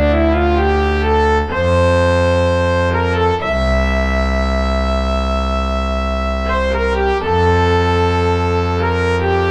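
Yamaha SY77 synthesizer playing a brass-like patch: sustained chords over a deep bass note, changing every couple of seconds, with a melody moving above.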